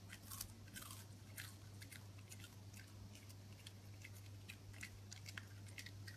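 A puppy chewing: faint, irregular little crunches and clicks, a few a second.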